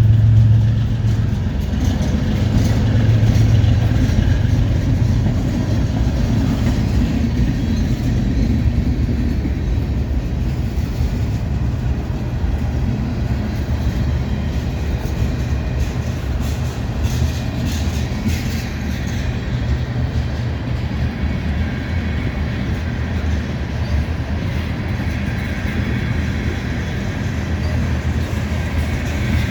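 Norfolk Southern freight train passing at close range. Diesel locomotive engines run heavily in the first few seconds, then freight cars roll by with a steady rumble and wheel clicks over the rail joints.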